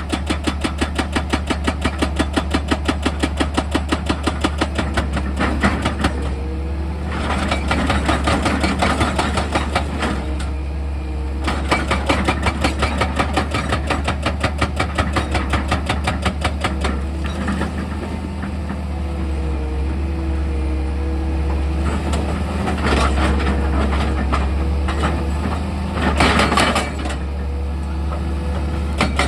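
Heavy machinery engine running, with a fast, even knocking for roughly the first six seconds, then a steadier run carrying a humming tone and several stretches of louder grinding noise.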